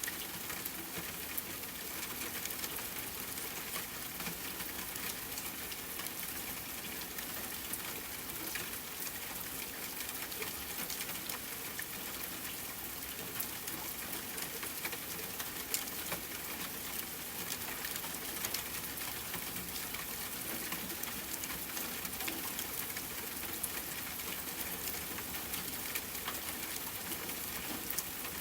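Steady rain falling, a continuous hiss with many small sharp clicks of drops scattered through it.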